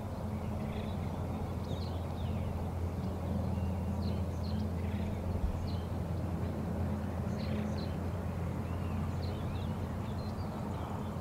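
Outdoor countryside ambience: scattered short bird chirps, one or two a second, over a steady low rumble.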